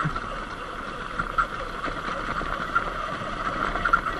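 Surron X Light Bee electric dirt bike riding along: a steady high motor whine over rushing wind noise.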